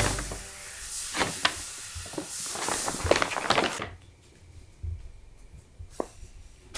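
A bag rustling and crinkling as a cat plays in it, with scattered clicks and a few soft thumps. It goes quieter about four seconds in.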